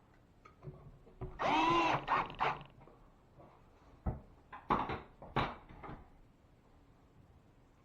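Tool work on drywall: a short, loud squeak that bends in pitch about a second and a half in, then a few sharp knocks a little later.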